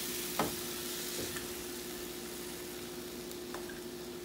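Chicken pieces sizzling in oil with ginger-garlic paste in a nonstick wok over a medium-to-high flame while a wooden spatula stirs them. The spatula knocks sharply against the pan about half a second in, and a steady low hum runs underneath.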